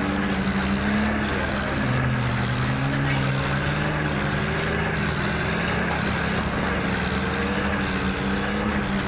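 Mini tractor's engine running steadily with a low, slightly wavering drone.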